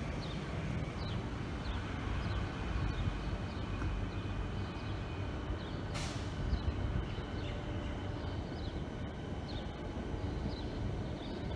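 Electric suburban trains moving through the station across the tracks, heard as a steady low rumble. A faint high chirp repeats a little more than once a second, and there is a sharp click about halfway through.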